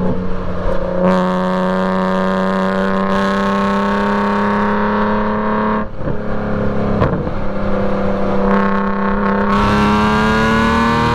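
BMW E46 M3's straight-piped inline-six running hard on track. The revs ease off at the start and hold steady, break briefly about six seconds in, then climb steadily toward the end.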